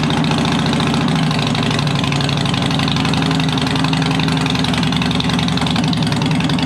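Harley-Davidson Dyna Wide Glide V-twin engine idling steadily through its exhaust, refitted with new gaskets.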